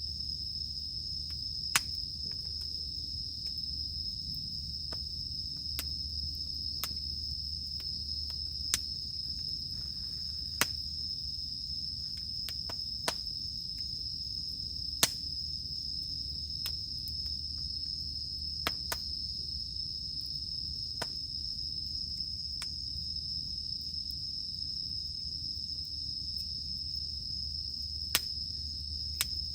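Campfire crackling, with sharp single pops every few seconds, over a steady high-pitched drone of cicadas.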